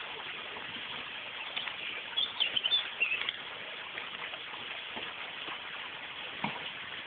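A small bird chirping, a quick cluster of high, bending chirps about two to three seconds in, over a steady outdoor background hiss.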